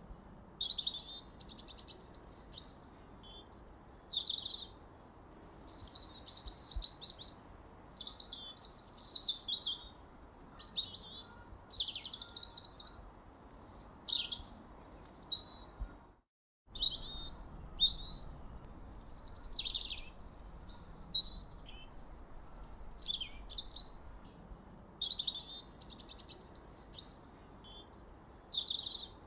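Songbirds singing and chirping in quick, overlapping whistled phrases, over a faint steady hiss. The sound cuts out completely for about half a second around the middle.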